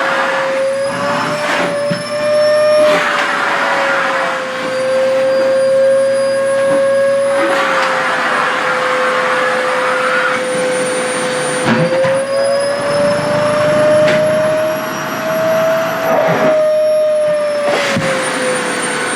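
SHARP EC-KP7F-A vacuum cleaner running, its motor tone wavering slightly in pitch, with stretches of louder rushing air as fabric is drawn against the nozzle.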